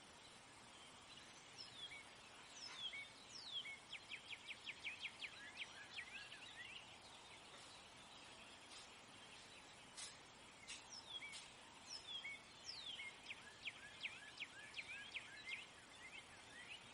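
Faint birdsong: quick, high, falling chirps, coming in two fast runs of several chirps a second, with scattered single notes between them over a light hiss.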